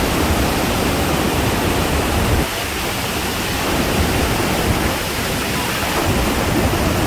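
Iguazu Falls: a loud, steady rush of falling water, heaviest in the low end.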